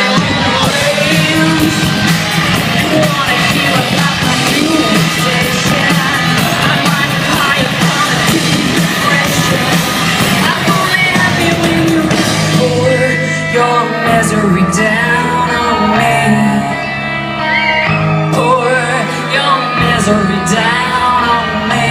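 Rock song with singing over a full band. About twelve seconds in the sound thins out, leaving held bass notes under the sung line.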